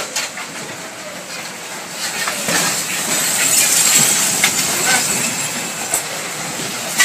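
Tornado wind: a loud rushing noise that builds about two seconds in, peaks around the middle and then eases, with a few sharp knocks of debris.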